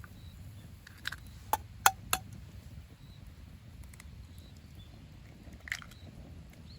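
Campfire crackling: a handful of sharp pops from the burning wood, the loudest about two seconds in, over a low steady rumble.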